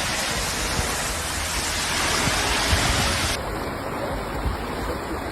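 Steady rushing of floodwater, a dense even roar with no pauses. About two-thirds of the way through it changes abruptly to a duller recording of the same kind of rushing water.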